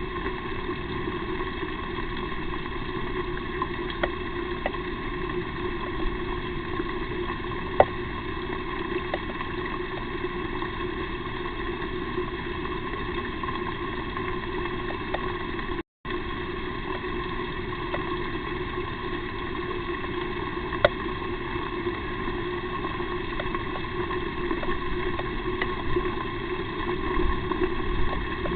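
Steady hiss and hum of a nest-box camera's microphone, with a few faint scattered clicks; the sound cuts out completely for a moment about halfway through.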